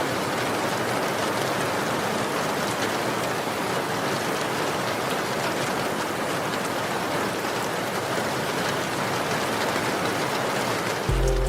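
Steady, even rain falling on surfaces, a dense hiss of many drops. Just before the end the rain cuts off and music comes in suddenly.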